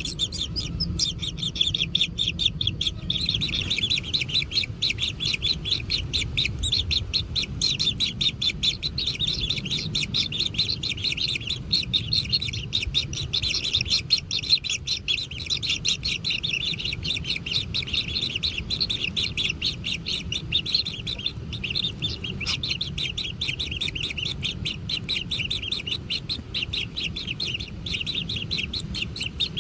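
Kingfisher nestlings chirping continuously in a rapid, dense chatter, the begging calls of chicks at feeding time, over a low background rumble.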